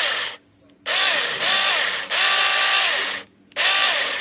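Battery-powered mini chainsaw run free in short trigger pulls. Each burst is a whine that rises in pitch as the motor spins up, holds, and falls as it is let off, with brief pauses between.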